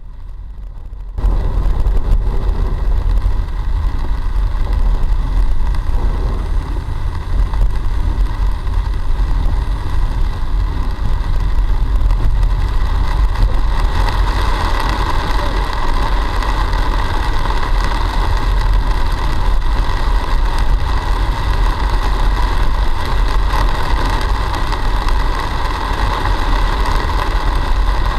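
A car driving through flood water in heavy rain, heard from inside the cabin through the dash cam: a steady rumble and rushing noise that starts abruptly about a second in and grows stronger about halfway through.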